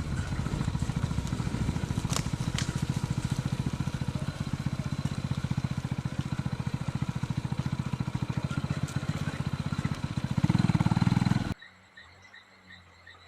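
Motorcycle engine running with a rapid low firing pulse, growing louder near the end and then cutting off abruptly.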